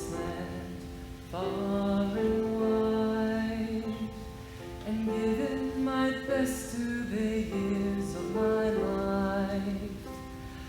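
Slow song performed live: voices singing long held notes over instrumental accompaniment, in phrases of a few seconds each.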